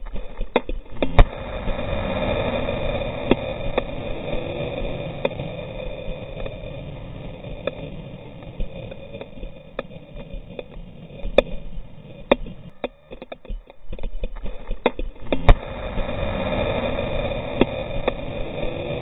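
Heavy rain falling steadily, with a scattering of sharp taps from drops or handling on the camera.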